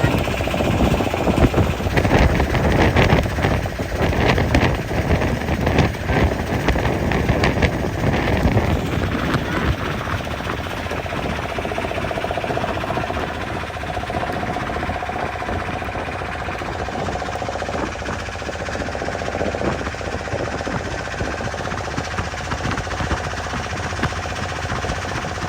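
Boat engine running steadily, with a rapid clatter for the first several seconds before it settles into an even drone.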